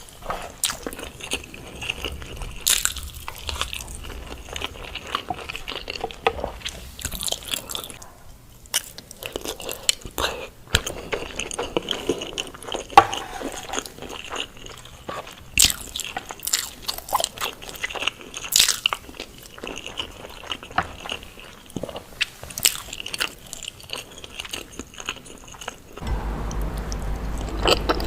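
Close-miked ASMR eating of balado eggs: irregular biting and chewing with wet mouth clicks and some crunchy bites. About two seconds before the end a steady low hum comes in under the chewing.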